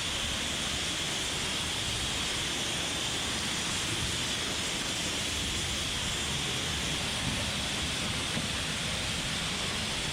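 Pressure washer running steadily: the hiss of the high-pressure water jet over a low rumble.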